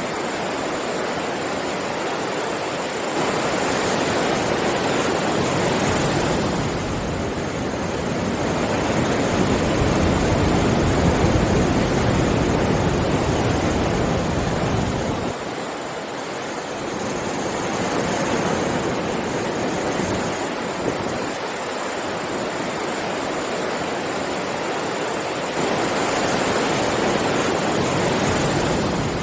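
Sea waves washing onto a beach: a continuous rush of surf that swells and eases slowly, growing louder for a few seconds at a time, several times.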